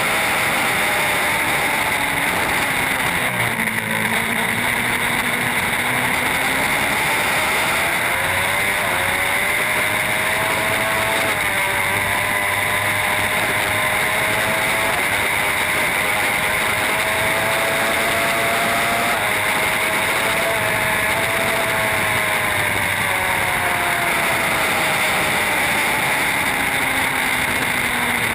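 Racing motorcycle engine at speed, its pitch climbing and falling several times with throttle and gear changes, over a steady loud rushing noise.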